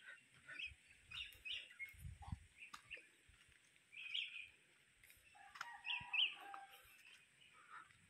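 Faint outdoor birdsong: scattered short high chirps, with a longer, lower call a little past five and a half seconds in. A soft low thud comes about two seconds in.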